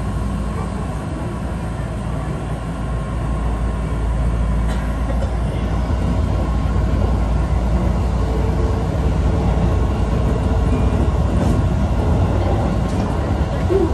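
Keihan 1000 series electric train running on the line, heard from inside the driver's cab: a steady rumble of wheels and running gear over a low hum, growing a little louder about four seconds in.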